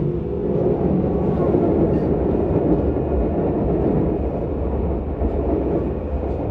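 Interior running noise of a Keisei 3700 series electric train, a Toyo GTO-VVVF car, under way: a steady rumble of wheels on rail and running gear.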